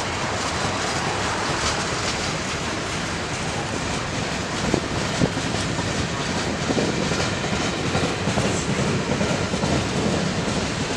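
Train rolling past on the Norfolk Southern main line, its wheels clicking over the rail joints, with two sharp clanks about five seconds in.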